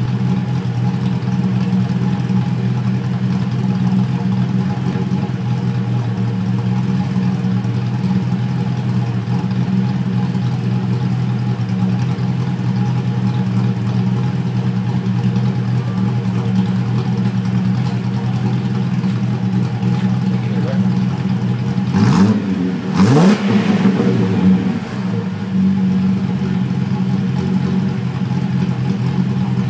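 Holden VY Commodore's 3.8-litre V6 idling steadily through a cat-back exhaust with no rear muffler, with an aftermarket cam fitted. About three-quarters of the way through the throttle is blipped twice in quick succession, the revs rising and falling each time, before the engine settles back to idle.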